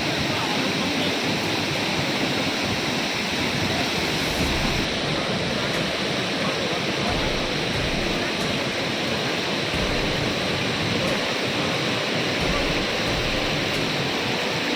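Nuranang Falls, a large waterfall, pouring steadily: an even, unbroken rush of falling water.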